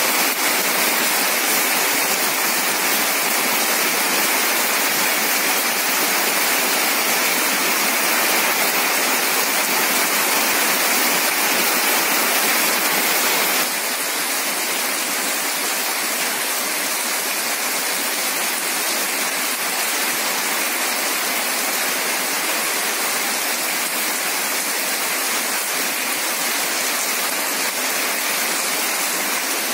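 Heavy rain falling steadily, with water pouring off the roofs; the level drops slightly about halfway through.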